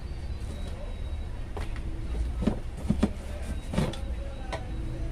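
Parts and packaging of a pressure washer being handled during unboxing: several short knocks and clatters over a steady low rumble.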